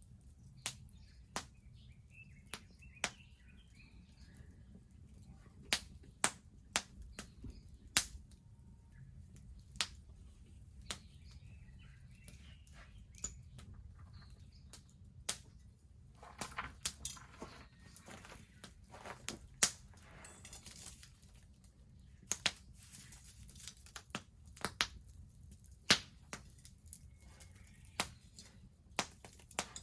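Wood bonfire crackling, with sharp pops at irregular intervals over a low steady rumble and a dense flurry of crackles about halfway through.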